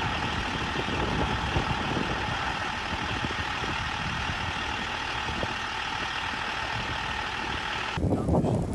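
Steady mechanical drone, like a heavy engine running, with an even hiss over a low rumble. It cuts off abruptly near the end, where a different, rougher sound begins.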